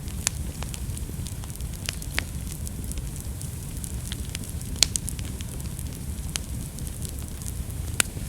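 Wood fire burning in a fireplace: a steady low rumble with irregular sharp crackles and pops, the loudest pops about five seconds in and near the end.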